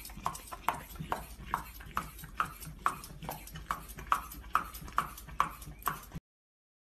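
Carrot being peeled in quick, even strokes, a crisp scrape a little over twice a second, with the dog licking at the peeler. It cuts off suddenly about six seconds in.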